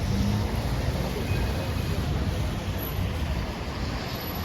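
Busy city street ambience: a steady low traffic rumble with an even hiss and faint voices of passers-by.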